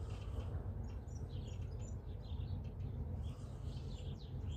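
Small birds chirping and twittering in quick, short calls, thickest from about a second in, over a steady low rumble.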